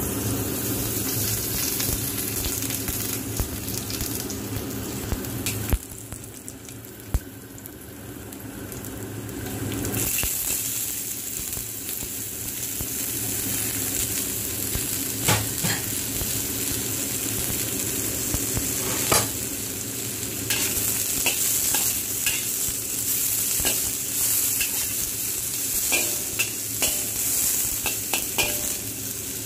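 Red bell pepper strips, garlic and ginger sizzling in hot oil in a pan, with a spatula now and then tapping and scraping the pan. The sizzle drops away about six seconds in and comes back louder about ten seconds in. The taps come more often near the end.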